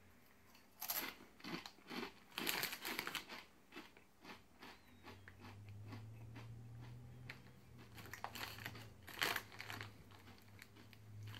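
Crunching and chewing of rolled Doritos Dynamita corn tortilla chips, with sharp, irregular crunches in two flurries, at the start and again near the end. A low steady hum joins from about halfway through.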